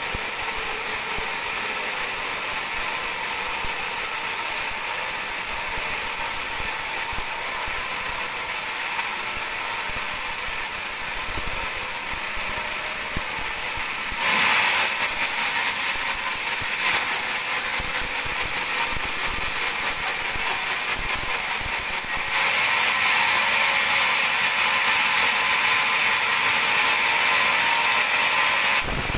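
Band sawmill cutting teak into boards: a steady, high-pitched blade noise that gets louder about halfway through and louder again near the end.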